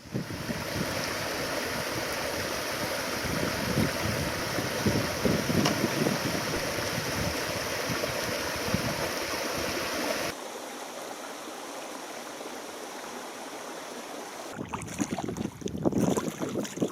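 Wind buffeting the microphone over a steady rush of water, with gusty rumbles in the low end. The sound cuts abruptly to quieter wind and water about ten seconds in, and the gusts return about fourteen seconds in.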